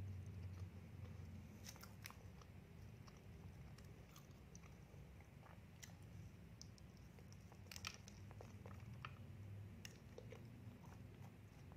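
Faint, close-miked eating of a doughnut topped with chopped nuts: a bite, then chewing with scattered small crunches and mouth clicks. A steady low hum runs underneath.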